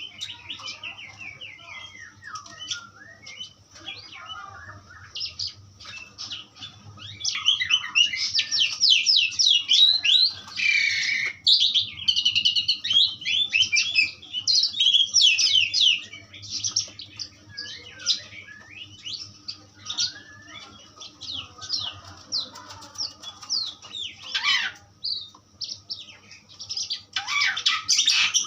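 Jalak suren (pied starling) singing a long, varied song of fast chirps, whistles and rapid trills, densest and loudest from about a quarter to over halfway through, with another loud flurry near the end.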